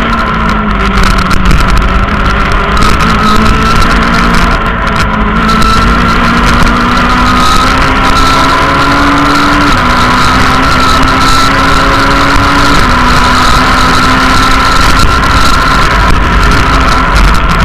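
Rally car engine under hard load, heard from inside the cabin. The revs climb slowly, with two upshifts about ten and thirteen seconds in.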